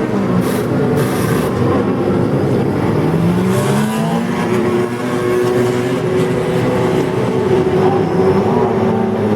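Several WEC endurance race car engines running together as the cars leave the pit lane, their overlapping notes holding steady and sliding up and down in pitch. There are two short hissing bursts near the start.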